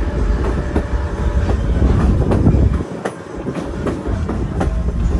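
Train cars rolling along jointed track: a steady low rumble with irregular clicks of the wheels over rail joints, the rumble dipping briefly about three seconds in.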